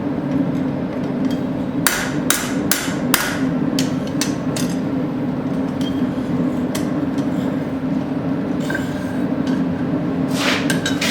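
Hand hammer striking a hot steel horseshoe on an anvil to flatten it: a quick run of blows about two seconds in, then scattered single strikes and a few more near the end. A steady low hum sits underneath.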